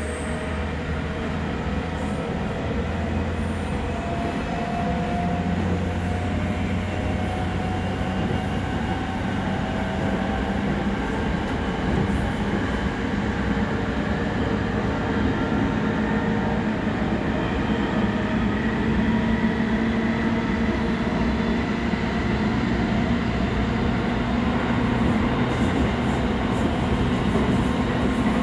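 Running sound inside a JR East E217 series motor car: the Mitsubishi IGBT VVVF inverter and traction motors whine over wheel and rail noise. Their tones rise slowly in pitch and the sound grows a little louder as the train gathers speed.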